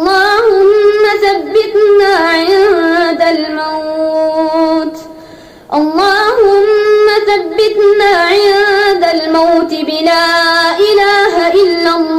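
A high solo voice singing unaccompanied in long, drawn-out, wavering phrases, in the chanted style of an Arabic supplication (du'a). The voice breaks off briefly about five seconds in, then starts again.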